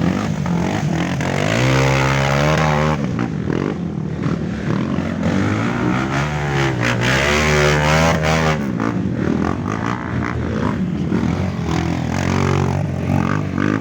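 Off-road trail motorcycle engines revving hard, the pitch climbing and falling in long surges, once about two seconds in and again from about six to eight seconds.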